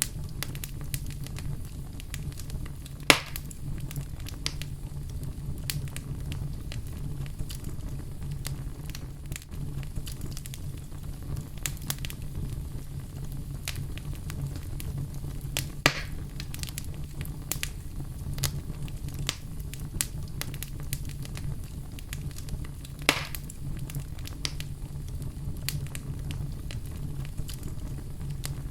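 Wood fire crackling steadily over a low rumble, with many small crackles and three louder sharp pops spread through.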